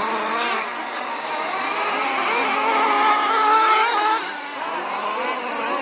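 Several off-road racing engines revving up and down at once, their overlapping high-pitched notes rising and falling as they race round the track. The loudest point comes around the middle.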